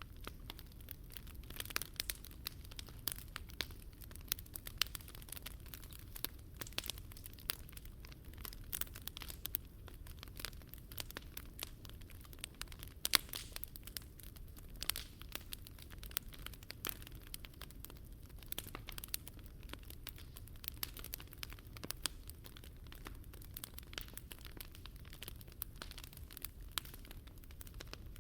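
Wood fire crackling in a Picogrill 398 fire stand: irregular sharp pops and snaps, a few louder ones, over a low steady rumble.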